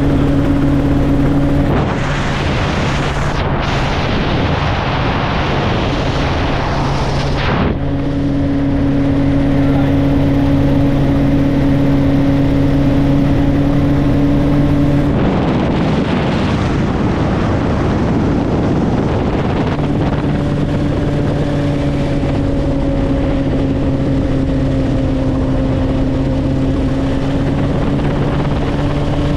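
Helicopter engine and rotor running, a steady droning hum. Twice a rushing, wind-like noise covers it for several seconds: about two seconds in, and again around the middle.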